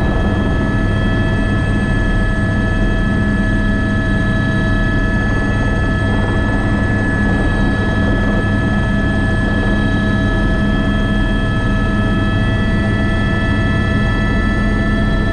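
Airbus AS350 B3 (H125) helicopter running steadily in flight: a constant high turbine whine over a low, even rotor drone.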